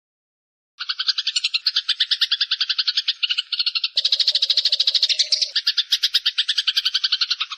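Eurasian tree sparrow chirping in a fast, unbroken chatter of about ten chirps a second, starting after a brief silence; from about halfway through a second, denser layer of chirping joins in.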